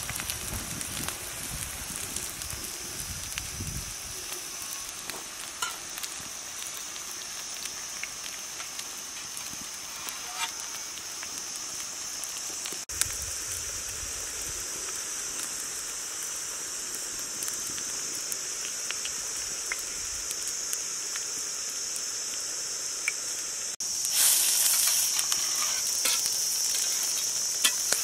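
Patties sizzling in oil on a flat iron griddle over a wood fire, a steady high hiss that gets louder near the end.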